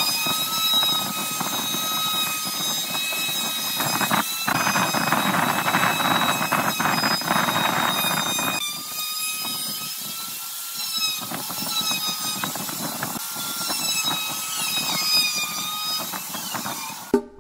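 High-speed electric woodworking power tool running with a steady whine, its pitch wavering slightly as it works. A stretch of harsher cutting or sanding noise comes from about four to eight seconds in, and the sound stops just before the end.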